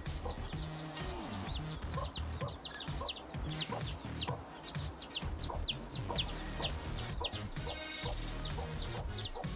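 Newly hatching chick peeping: a steady string of high, short peeps, each falling in pitch, about three a second. The chick is weak and being helped to break open the top of its shell.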